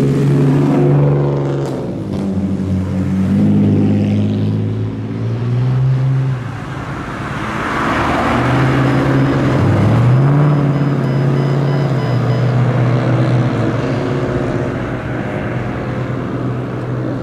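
Loud car engines and exhausts driving past, revs stepping up and down, with the loudest pass about eight seconds in.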